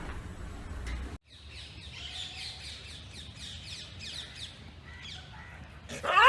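Small birds chirping, a rapid series of short, high, falling chirps, after a brief low rumble that cuts off about a second in. A loud wavering whimper or yelp begins right at the end.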